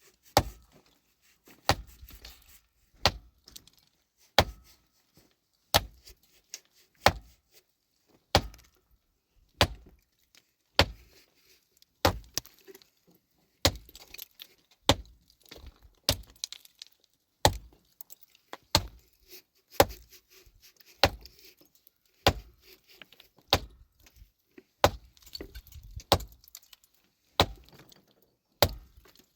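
A heavy metal tool, such as a pickaxe, striking rock in steady, evenly spaced blows about every second and a quarter, about two dozen sharp metallic strikes in all, each with a brief ring.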